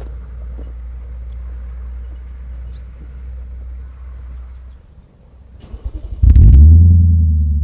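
A steady low rumble, then the Audi S4's 4.2 V8 being started through its Milltek exhaust. About five and a half seconds in, the starter cranks briefly, the engine catches with a loud flare, and the revs drop back into a steady idle.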